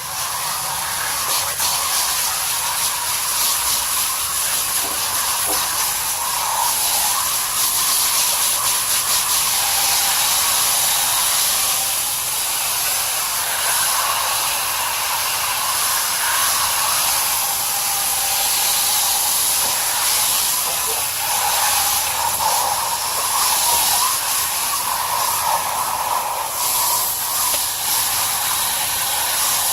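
Garden hose spraying water steadily through the fins of an air-conditioner condenser coil to rinse out packed cottonwood, a continuous hiss of spray that briefly thins near the end.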